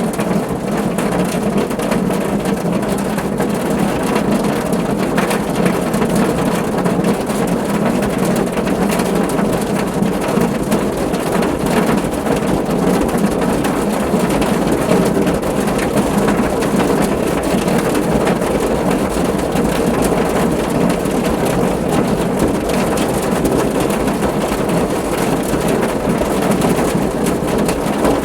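Steady rain drumming on a car's roof and body, a dense even patter of drops.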